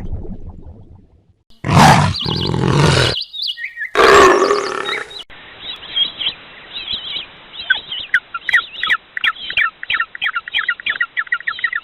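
A run of different animal calls: two loud, harsh calls, each a second or so long, then a bird chirping rapidly for the last six seconds, the chirps coming faster toward the end.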